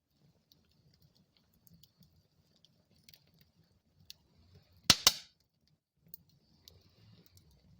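Wood fire burning in a fireplace: scattered light crackles over a faint low rumble of flame, with one loud double pop about five seconds in.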